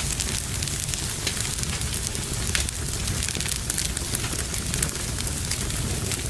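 Wood fire burning in a fireplace: a steady low rumble with frequent small crackles and pops of the burning logs.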